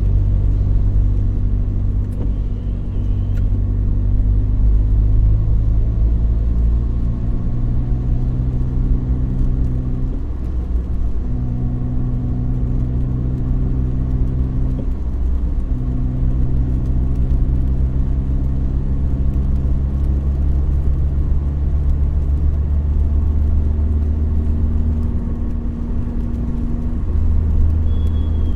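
Car driving on a road: a steady low engine and road rumble, with a droning engine note that breaks off briefly twice and comes back.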